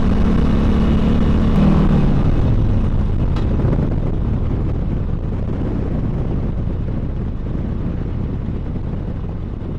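Harley-Davidson Sportster Seventy-Two's 1200 cc V-twin engine running while under way. About two seconds in its steady note drops away, and the sound eases off gradually as the bike slows.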